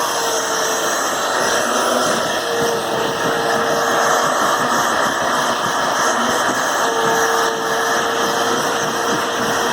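Vacuum cleaner running steadily, with a motor whine whose pitch comes and goes, used to vacuum a dog's coat.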